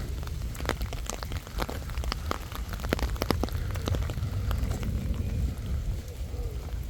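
Rain falling on an umbrella: many irregular sharp drop ticks over a steady low rumble.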